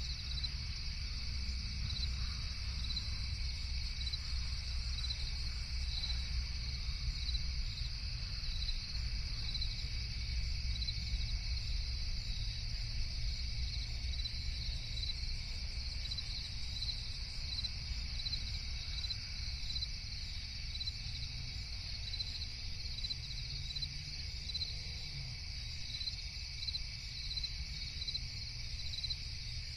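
Crickets chirping in a steady night chorus, one high trill pulsing evenly over a constant insect hum, with a low rumble underneath.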